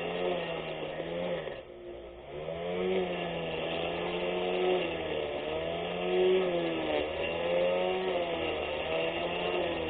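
24V brushless electric lawn mower motor whining steadily, its pitch rising and sagging every second or two, with a deeper dip about two seconds in.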